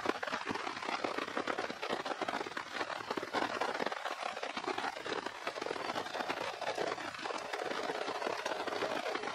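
Steady rain pattering on a forest floor and shelter, a dense, crackly patter of many drops.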